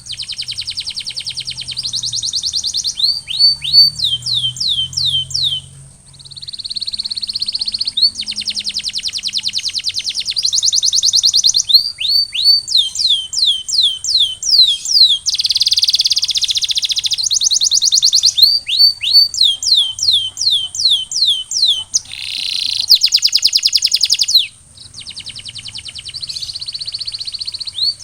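Domestic canary singing a continuous song of fast rolling trills and runs of rapid falling whistle notes, with brief pauses about six seconds in and near the end.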